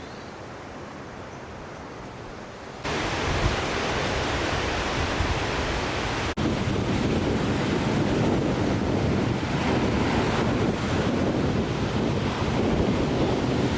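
Soft steady wind hiss, then about three seconds in a sudden switch to loud surf from waves washing on a lake shore, with wind buffeting the microphone. The sound drops out for an instant about six seconds in.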